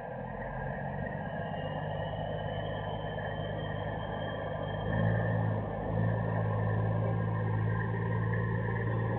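Heavy diesel truck engine running with a steady low drone that grows louder about five seconds in, over road noise.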